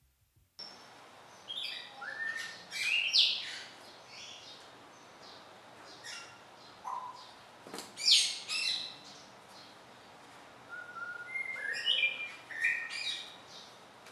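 Birds chirping in short bursts of gliding calls, in three clusters with quieter gaps between them.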